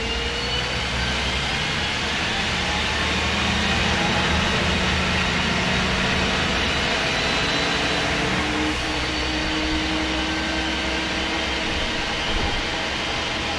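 MAN SD202 double-decker bus with its MAN D2566 MUH diesel engine and Voith Diwa 851 automatic gearbox, driving: a steady low engine drone with whining transmission tones. The whine's pitch levels off early on, and a new, lower whine comes in about seven seconds in.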